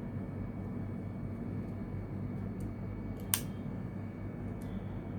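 A steady low hum with a few faint ticks and one sharp click about three seconds in, from hands and tools handling the laptop's parts.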